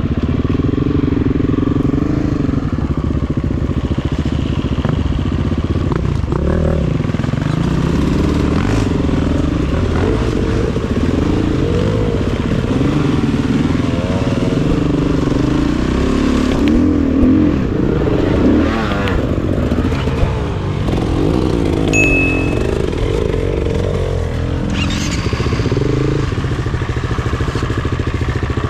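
Dirt bike engine running under way, its pitch rising and falling again and again as the throttle is worked over trail terrain.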